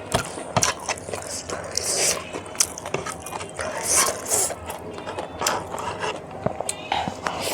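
Close-miked eating sounds: a person chewing food, with many sharp wet clicks and a few short crisp crunches.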